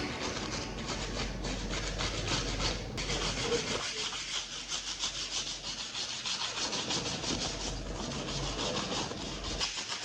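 Rapid, evenly repeated rubbing or scraping strokes on a hard surface, several a second.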